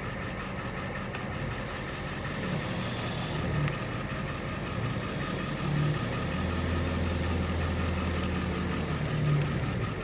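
Truck engine running steadily and revving up a few times as it pulls against a chained-up truck stuck in mud.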